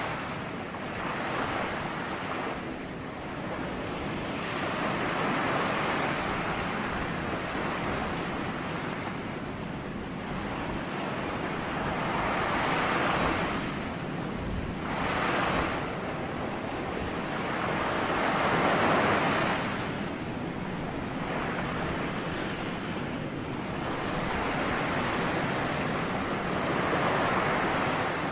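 Ocean waves breaking and washing ashore in a steady rushing noise that swells and falls back every few seconds.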